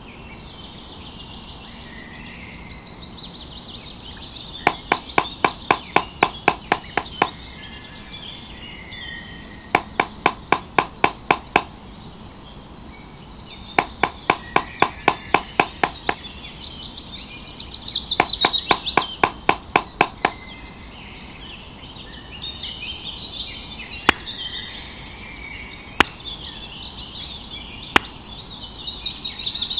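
Rapid tapping on wood in four bursts of about eight to ten knocks each, followed by three single knocks a couple of seconds apart near the end, over birdsong chirping.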